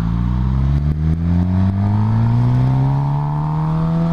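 Motorcycle engine accelerating hard in one gear, its pitch climbing steadily, then dropping sharply at a gear change near the end.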